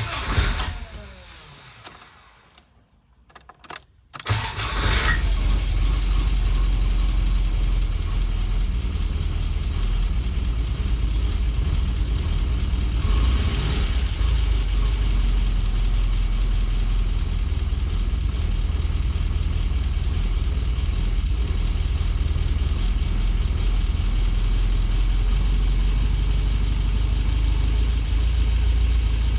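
1970 MGB GT's four-cylinder engine started from cold without the choke. After a burst and a short pause it catches about four seconds in and settles into a steady idle.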